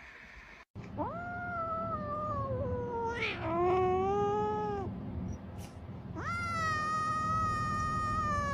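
A cat yowling: two long, drawn-out calls that slowly fall in pitch, the first about a second in and lasting some four seconds, the second starting about six seconds in.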